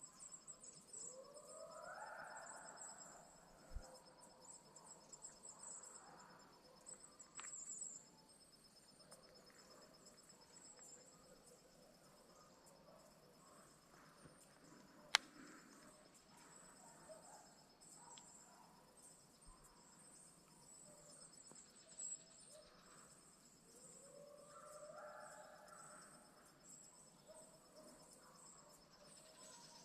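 Quiet woods with a steady, faint, high insect trill and scattered chirps. Two faint distant calls rise in pitch, about two seconds in and again near the end. One sharp click comes about halfway through.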